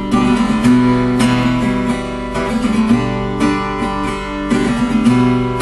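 Acoustic guitar strumming chords as a song's accompaniment, with no singing: a steady rhythm of strokes with the chords ringing on.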